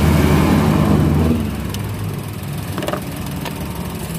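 Toyota Wigo's 1.0-litre three-cylinder engine idling steadily, its hum dropping in level about a second in, with a few faint ticks later. The engine has a misfire code that the scanner pins on cylinders 1 and 3.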